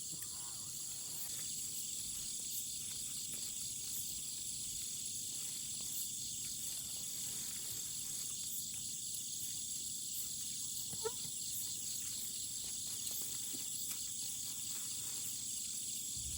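Steady chorus of insects, a high even buzz with a fast pulsing trill beneath it. A brief faint call rises about eleven seconds in.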